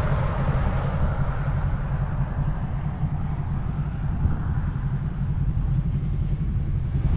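Steady low rumble of a motor vehicle, with no distinct events.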